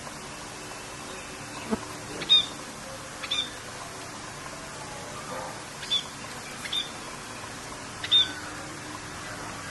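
Steady rain with a bird's short, sharp chirps, five or so spread through, each a quick high note.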